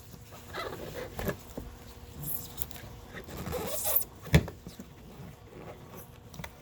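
Hand tools working on a car's radiator mountings: scattered metal clicks, rattles and scraping, with one sharp knock a little past the middle.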